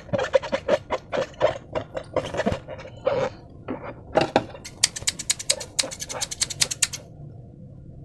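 Hands squishing and stretching slime, making sticky clicks and squelching pops. About five seconds in comes a fast run of crackling pops, roughly ten a second, lasting about two seconds.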